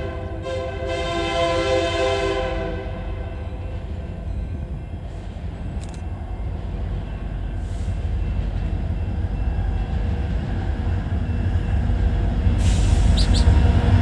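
Diesel locomotive air horn sounding, cutting off about three seconds in, over the low rumble of the approaching train, which grows steadily louder.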